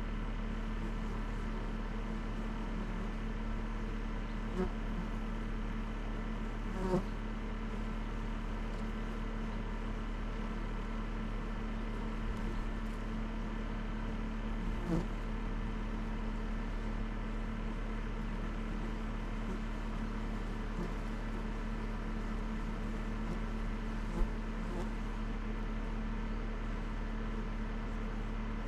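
Dacia Solenza's engine running at steady revs, a constant buzzing drone. A few light knocks come through now and then, about 5, 7, 15 and 24 seconds in.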